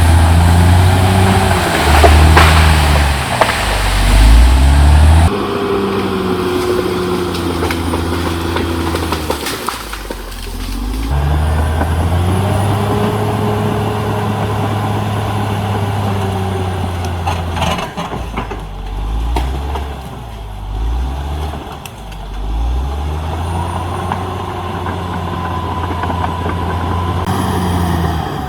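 CAT D6R XL bulldozer's diesel engine working under load, its pitch rising and falling as it revs, with a few sharp knocks. The sound jumps abruptly a few times.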